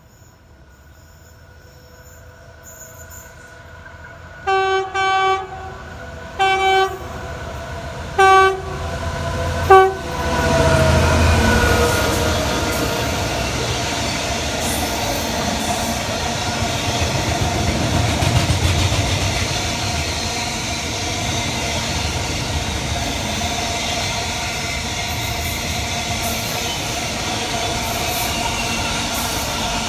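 A train approaches and sounds its air horn four times, each blast shorter than the last. It then passes close by with a loud, steady rumble of wheels on the rails.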